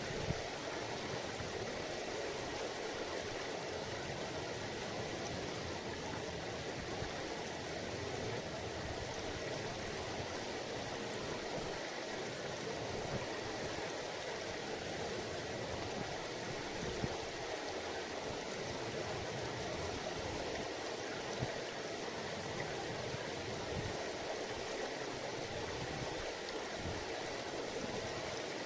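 A mountain river babbling and rushing over rocks in a steady, even wash, with a few small splashes standing out now and then.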